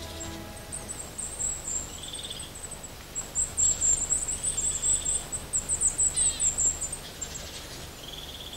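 Small songbirds calling: rapid runs of very high, thin chirps, with a short buzzy trill repeating about every two seconds.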